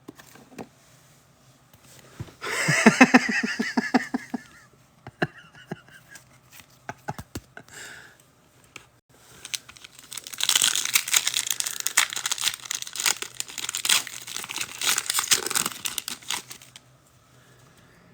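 Foil trading-card pack being torn open: a rasping tear of about two seconds a couple of seconds in, a few light clicks, then about six seconds of steady crinkling of the foil wrapper.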